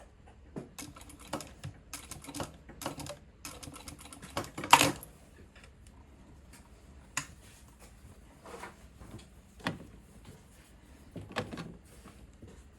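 Irregular clicks and taps, thickest in the first few seconds, with one louder knock about five seconds in.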